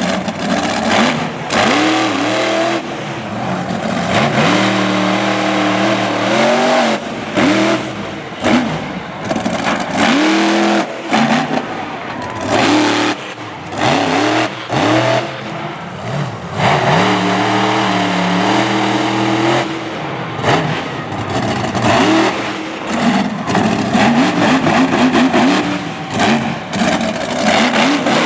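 Monster truck engine revving hard in repeated bursts, its pitch climbing and dropping as the throttle is opened and snapped shut again and again during a freestyle run.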